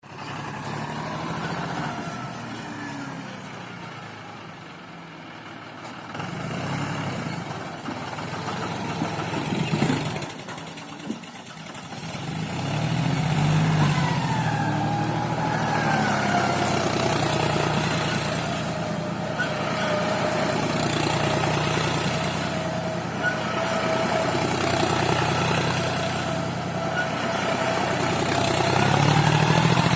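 John Deere tractor's diesel engine running under load, dropping back around 4 to 6 seconds in and picking up speed and loudness from about 12 seconds on. From then on it holds steady, with a thin whine above the engine note.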